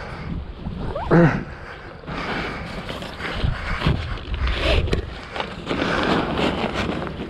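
Wind and water noise on a sailboat under way, with a short rising pitched sound about a second in.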